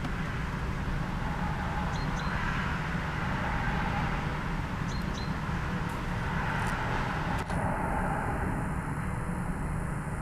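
Freightliner aggregates freight train running along the far hillside: a steady low rumble with swells of wagon noise. It is heard at a distance across the valley.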